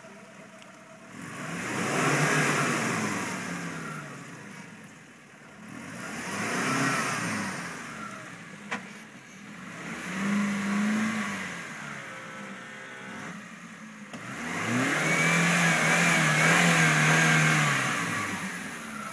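Suzuki Sierra (Samurai) four-cylinder engine revving hard in four bursts, the revs rising and falling, as the 4x4 struggles through deep ruts in two-wheel drive with its front axle broken. There is one sharp knock about halfway through.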